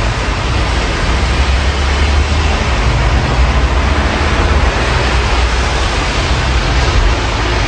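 Steady rain hiss heard through an open window, with a low rumble of city traffic underneath.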